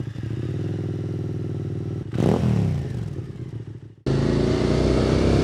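QJ Motors SVT650X motorcycle engine breathing through an Arrow Racetech slip-on exhaust. It idles steadily, takes one sharp throttle blip about two seconds in, and drops back as the revs fall away. Near the end it cuts abruptly to the bike under way: the engine running steadily with wind rushing.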